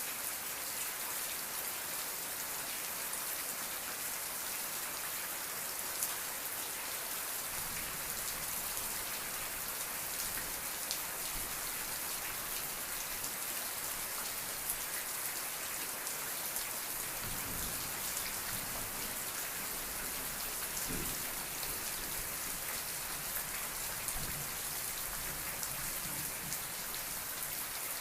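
Steady rain falling, an even hiss with scattered drops ticking on a surface. A faint low rumble comes and goes in the lower range now and then.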